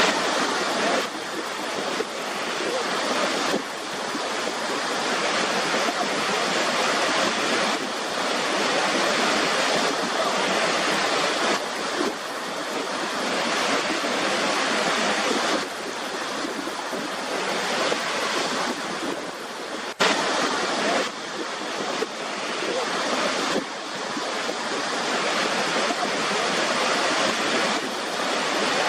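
River water rushing: a steady wash of water noise that swells and eases a little, with a sudden break and jump in level about two-thirds of the way through.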